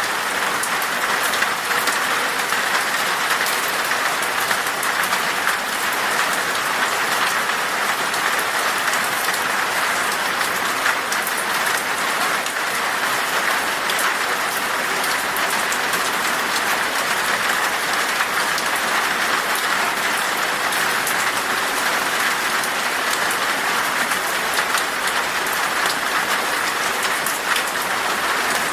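Steady rain falling in a forest, an even hiss of dense drops pattering on leaves and ground with many small drop ticks.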